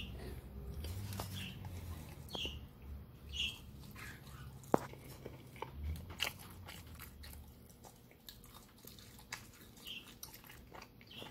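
Close-up chewing of a bitten hot dog in a soft bun, with faint, irregular mouth clicks, the sharpest about halfway through. A few short high chirps come now and then.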